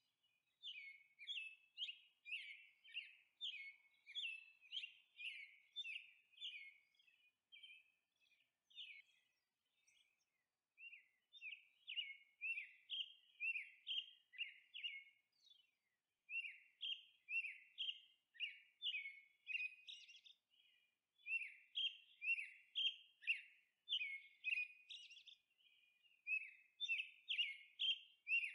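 A small bird chirping over and over in quick runs of bright, high notes, breaking off briefly a few times.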